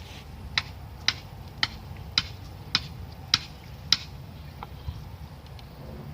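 A run of seven sharp clicks at an even pace, about two a second, followed by two fainter clicks, over a steady low rumble.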